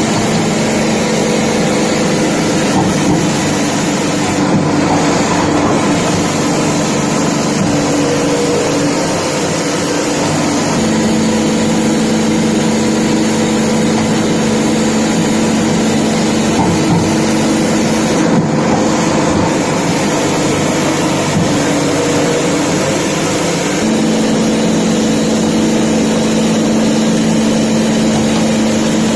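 Automatic fish gutting machine running: a steady mechanical clatter and whir with a motor hum that drops out and comes back a couple of times.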